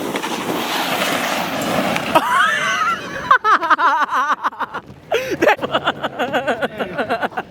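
Wind rushing on the microphone for about two seconds, then loud, excited yelling and rapid pulsed voice sounds through the rest.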